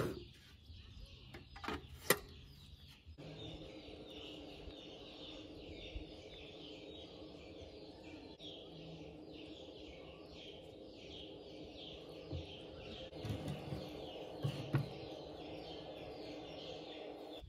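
Small birds chirping in a quick repeated pattern, about two calls a second, over a steady low hum. A couple of sharp clicks come at the start, and a few dull knocks near the end.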